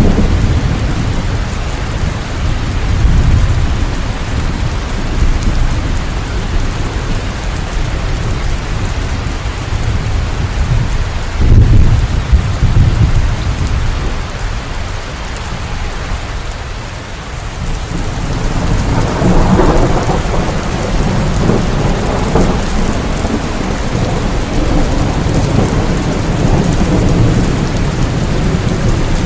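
Steady heavy rain with thunder rumbling underneath. A sharp, loud thunderclap comes a little before the middle, and another long rumble follows later on.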